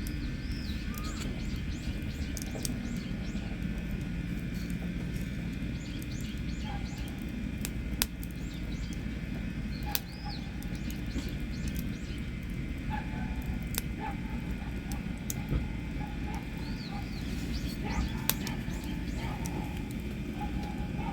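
A wood campfire lit with fatwood burning, with a steady low rumble and a few sharp pops. Birds chirp now and then in the background.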